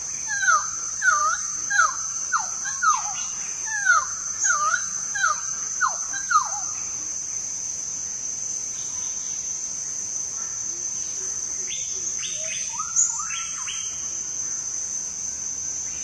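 A wild cucak timur bird singing a repeated series of about ten clear whistled notes, each falling in pitch, for the first six seconds or so, then a short burst of quicker, higher notes near the end. A steady, high-pitched insect drone runs underneath.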